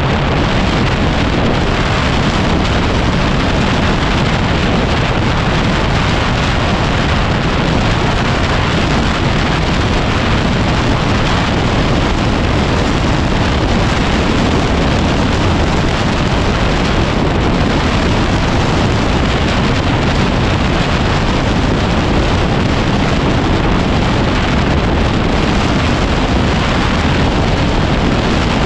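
Loud, steady wind noise buffeting the microphone of a moving motorcycle, a Yamaha WR250R trail bike, mixed with its riding noise.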